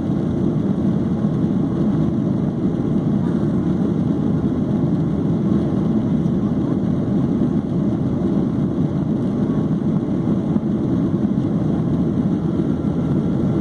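Steady low roar of a Boeing 737-800's CFM56-7B jet engines and the rush of air, even and unbroken throughout.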